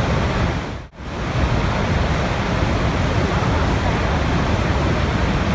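Steady rushing water, a dense even noise heaviest in the low end, which fades out almost to silence and back in again about a second in.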